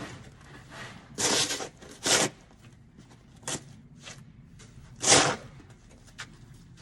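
Snow shovel blades scraping and chopping into heavy, wet snow in short strokes, about five in all, the loudest near the start and near the end.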